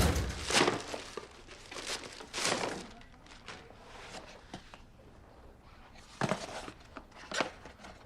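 Paper and plastic packaging rustling and crinkling in a handful of short bursts as a delivery parcel is torn open and handled. The loudest bursts are at the start, with further ones about two and a half seconds and six seconds in.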